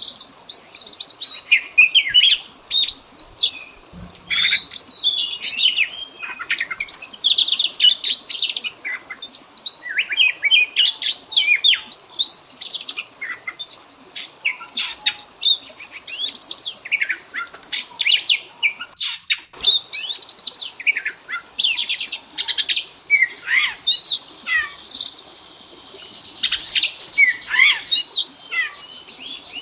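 Oriental magpie-robin (kacer) singing a fast, unbroken song of varied whistles and chirps, packed with phrases imitated from other birds.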